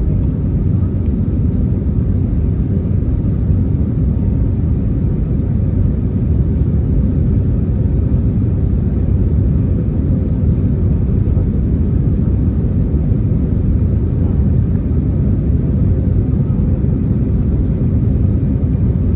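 Airbus A321neo passenger cabin in flight: a steady, loud low rumble of engine and airflow noise.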